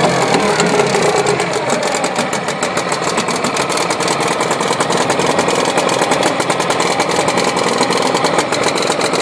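Mariner 4 hp two-stroke outboard motor running steadily at idle, with a rapid, even beat of firing pulses.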